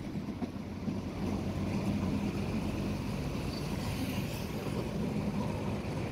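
Diesel passenger train rolling slowly, heard from an open carriage window: a steady low rumble with an engine hum.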